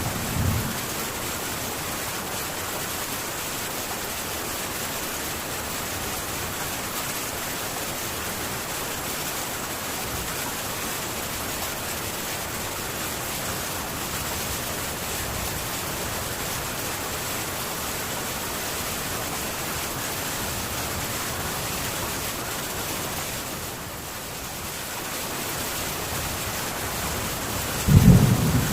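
Heavy rain falling steadily on a metal tin roof, an even dense hiss. A low rumble of thunder starts near the end.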